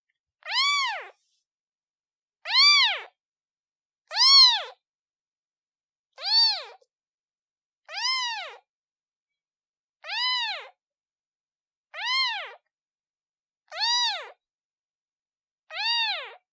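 Newborn kitten meowing repeatedly, calling for its mother: about nine short, high-pitched meows, each rising then falling in pitch, evenly spaced a little under two seconds apart.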